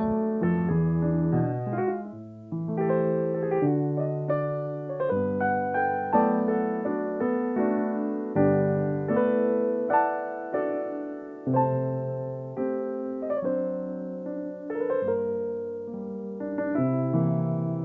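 Solo piano playing a slow, gentle piece of chords over a bass line, each note struck and fading.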